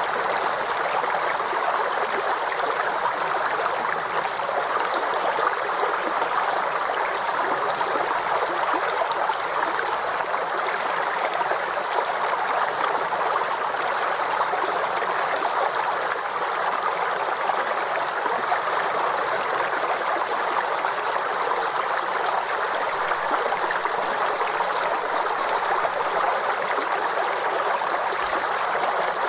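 Forest stream flowing over rocks, a steady rush of water with gurgling.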